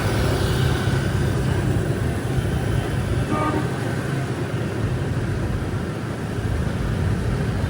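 Street traffic: a steady rumble of passing vehicle engines, with a brief horn toot about three seconds in.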